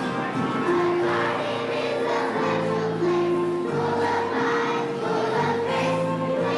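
A children's choir singing with instrumental accompaniment, in held, sustained notes.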